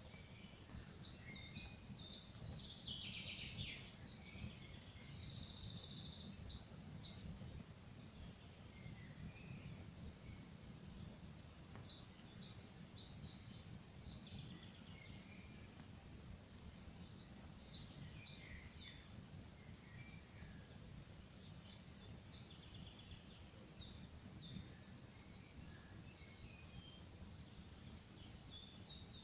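Songbirds singing in short phrases every few seconds, loudest in the first seven seconds and again near twelve and eighteen seconds, over the low, steady crackle of a campfire.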